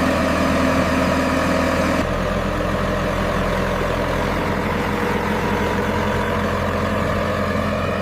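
A heavy vehicle engine running steadily at idle, its sound changing abruptly about two seconds in.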